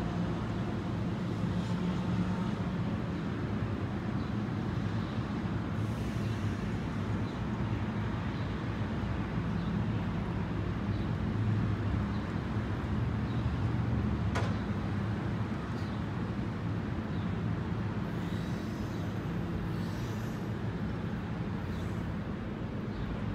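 Diesel commuter train's locomotive engine running with a steady low rumble as the train pulls out of the station and moves away, swelling a little partway through.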